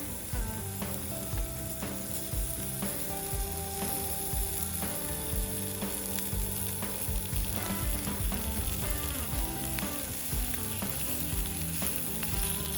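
Meat sizzling steadily on a hot iron plate, with scattered small pops and crackles.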